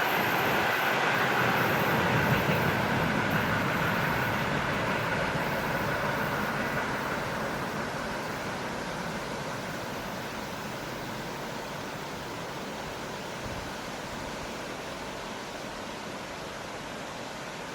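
A train on the line running on past and receding: the noise of its wheels on the rails fades steadily and evenly into a soft background hiss.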